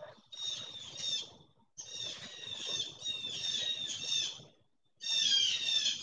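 Birds calling in three bouts of quick, repeated high-pitched calls, with short silent pauses between them.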